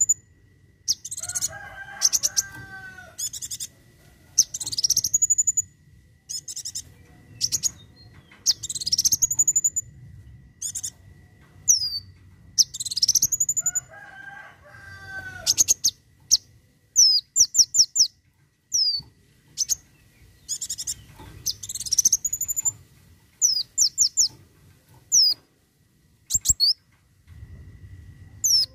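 Kolibri wulung sunbird singing its 'tembakan': sharp, very high phrases of rising sweeps and quick runs of falling notes, repeated again and again with short pauses. Twice a lower, warbled phrase comes in.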